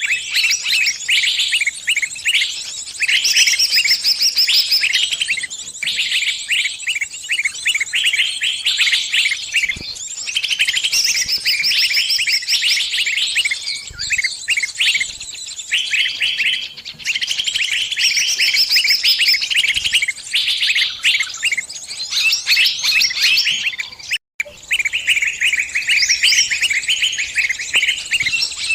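Small birds giving dense, rapid runs of high chirping with barely a pause: the distress calls of a trapped bird crying out to its flock. One momentary break comes late on.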